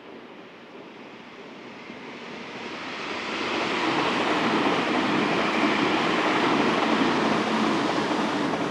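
A Meitetsu electric train passing close by: its wheel and running noise grows over the first few seconds, then holds steady and loud as the cars go by.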